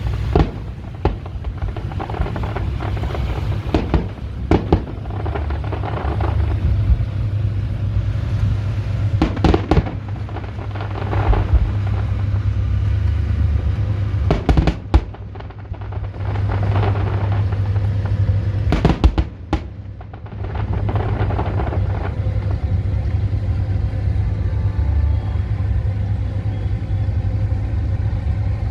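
Fireworks exploding: scattered sharp bangs and crackling bursts, in clusters through the first two-thirds, over a steady low rumble.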